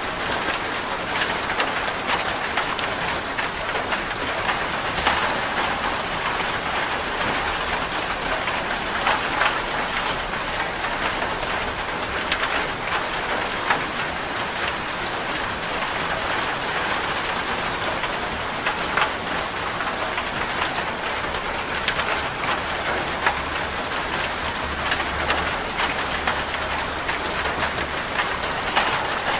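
Steady rain, an even hiss with many scattered sharp ticks.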